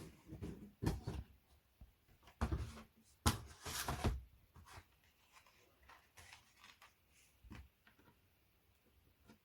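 Knocks, clunks and a short scrape of flat-pack furniture panels and parts being handled and fitted together during assembly, busiest in the first few seconds and then tailing off to a few light clicks.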